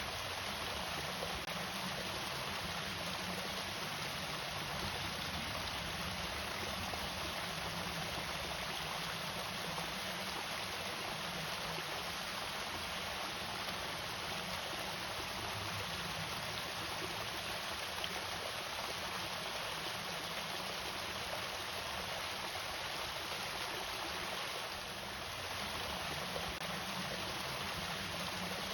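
Water falling steadily over a small irrigation waterfall, a continuous even rush with no breaks.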